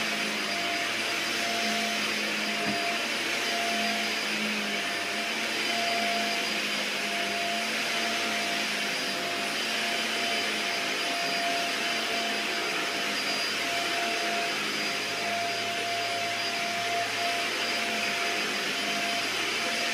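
Dyson DC50 Animal upright vacuum cleaner running steadily over carpet: a constant motor whine over the rush of air.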